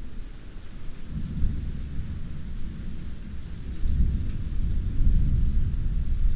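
Heavy rain falling steadily, with rolling thunder rumbling low underneath. The rumble swells about a second in and again around four seconds in.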